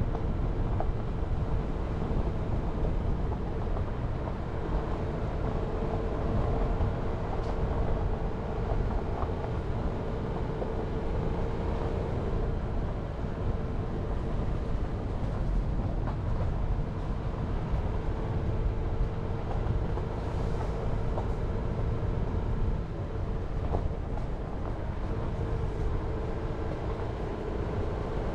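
Jeep Renegade driving: steady engine and road noise, a low rumble with a faint steady hum over it.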